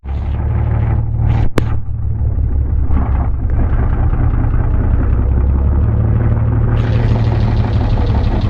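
Vehicle engines rumbling steadily at low pitch. There is a sharp click about a second and a half in, and a brighter hiss joins near the end.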